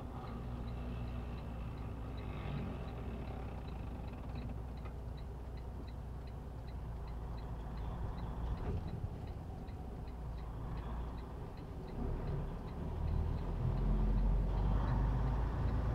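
Turn signal ticking steadily inside a truck cab over the low drone of the truck's engine. The ticking fades out about halfway through, and the engine gets louder near the end.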